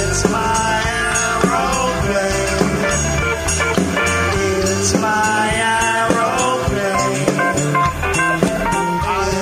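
A live rock band plays an instrumental passage, with sustained pitched lines over bass and cymbals and no lead vocal.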